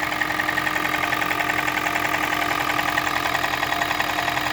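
Toyota Prius 1NZ-FXE 1.5-litre four-cylinder engine idling with a rapid, even knock. The owner places the knock at the valve cover and suspects piston slap rather than a rod knock, in an engine that burns about a litre of oil per 1000 km.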